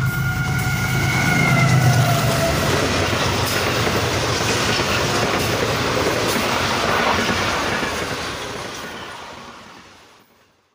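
Pakistan Railways diesel locomotive passing close by with its engine running and steady high tones over it that dip in pitch about two seconds in. Its passenger coaches follow, rolling past in a steady rush that fades away near the end.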